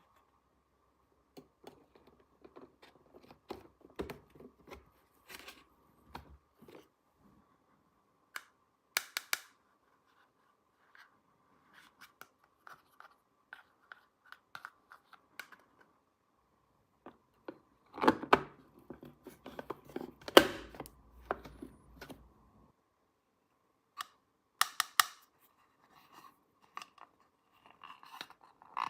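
Small plastic toy pieces being handled: scattered clicks, taps and scrapes, with a cluster of louder knocks about two-thirds of the way through. A faint steady high hum runs underneath for most of it.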